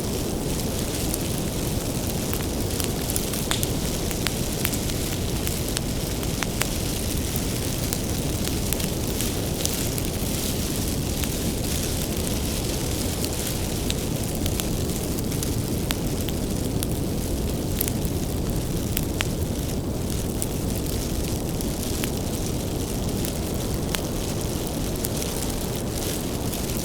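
Wood fire burning steadily with a low rumble and frequent sharp crackles and pops from the burning firewood.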